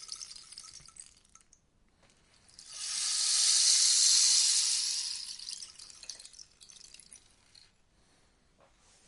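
Rainstick turned over: its pebbles cascade through the tube in a rain-like pattering. The tail of one pour fades out in the first second and a half. After a short pause a new cascade swells to its loudest about four seconds in, then thins to a few scattered ticks by about eight seconds.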